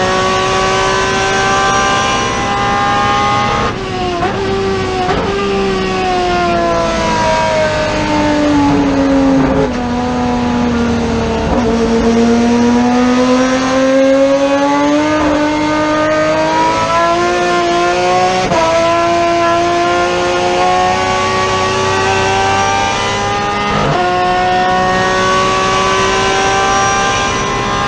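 TC Pista touring car's engine under load on a qualifying lap, the note dropping sharply about four seconds in, sinking slowly to its lowest around the middle and then climbing again, with sudden drops of gear changes twice in the later part.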